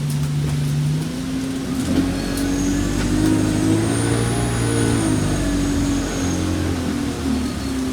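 Alexander Dennis Enviro200 bus's diesel engine pulling under load, its pitch rising and stepping several times as it works through the gears, with a faint high whine that rises and falls in the middle.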